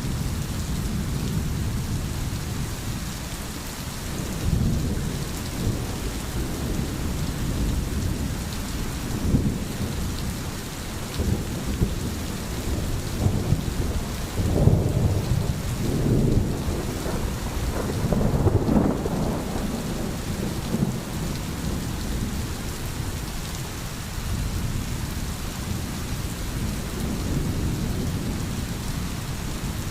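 Steady heavy rain with rolling thunder rumbling underneath, swelling strongest about halfway through.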